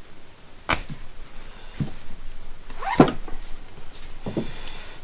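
Ratchet straps being packed into their fabric storage bag: handling noise with four separate knocks and rustles, the loudest a thump about three seconds in.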